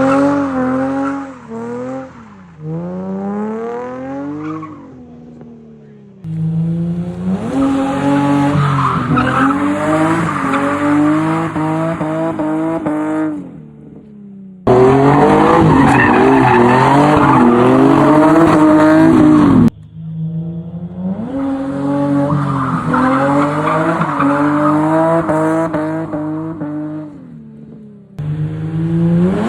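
Drift car driven hard: the engine revs up and down with tyres squealing as it slides. The sound breaks off and jumps abruptly to a new pass several times.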